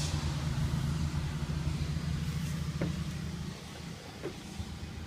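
Heavy truck's diesel engine idling steadily. It becomes quieter and more muffled about three and a half seconds in, with a couple of light clicks or knocks.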